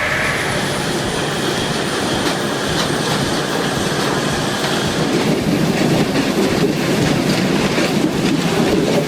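A heavy machine running with a steady rumble and a continual clatter and rattle, growing somewhat heavier after about four seconds.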